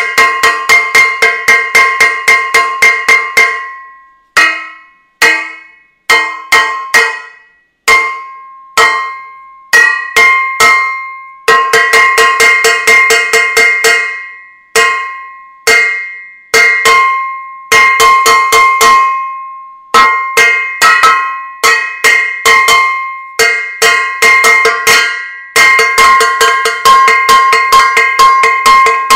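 A metal saucepan being banged over and over, each strike ringing on. The strikes come in fast runs of several a second, broken by slower single hits spaced about a second apart.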